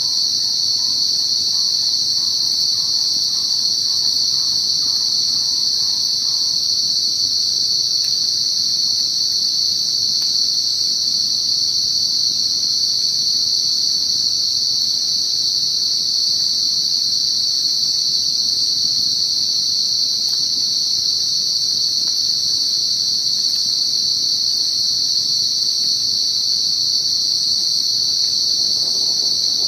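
Night insects, crickets, keeping up a loud, unbroken high-pitched chorus. In the first six seconds a faint run of short repeated notes, about two a second, sounds beneath it.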